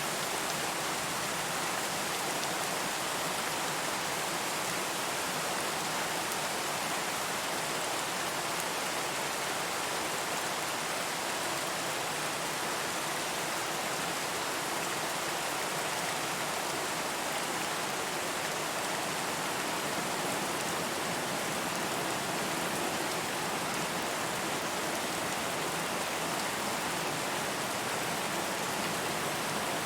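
Steady, even rain hiss with no distinct drops or changes.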